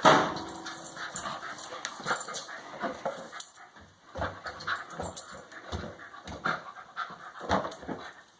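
A dog panting and shuffling about during play, with a sudden loud sound right at the start and irregular soft knocks and breaths after it.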